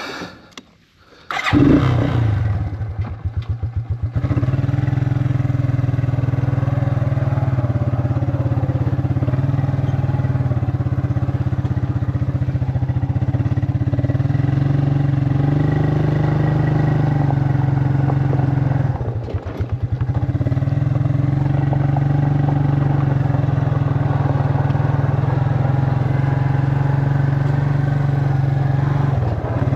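A small vehicle engine starts about a second and a half in and then runs steadily, with a brief dip in its sound about two-thirds of the way through.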